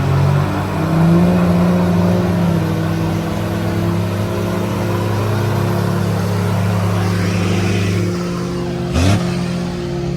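Truck engine held at high revs for a burnout, running steadily after its pitch steps up about a second in, with a short sharp rev blip near the end.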